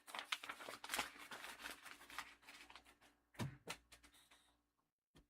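Faint rustling and rapid light clicking, as of things being handled, with a soft thump about three and a half seconds in.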